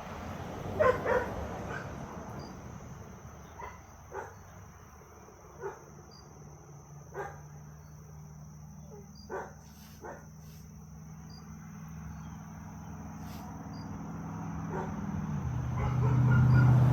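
A dog giving short single barks spaced a second or two apart, the loudest a quick pair about a second in, over a steady high chirring of crickets. A vehicle engine grows louder over the last few seconds.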